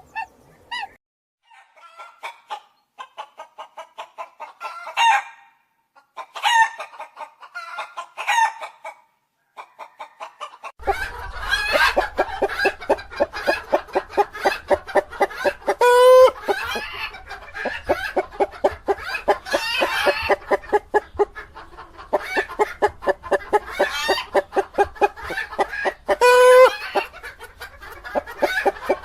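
Chickens clucking: scattered single clucks and calls at first, then from about ten seconds in a whole flock clucking rapidly and continuously, with two louder, higher calls standing out.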